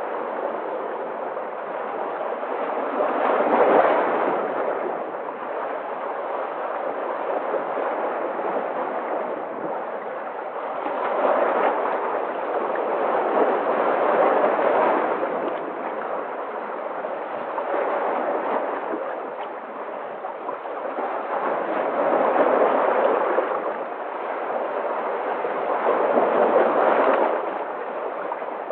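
Sea waves breaking and washing on a shore, a steady rush that swells and ebbs every few seconds.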